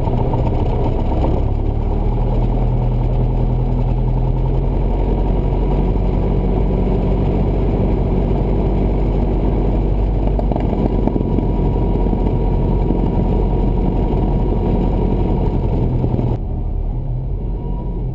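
Cessna 172's piston engine and propeller running steadily. Near the end the sound drops a little and turns duller.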